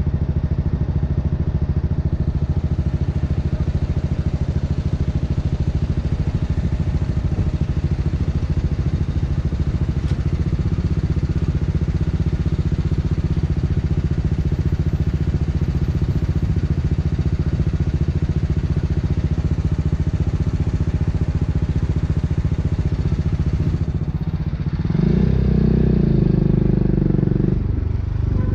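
BMW G 310 R's single-cylinder engine idling steadily through an Akrapovic racing exhaust. About 25 seconds in, it revs up louder with rising pitch.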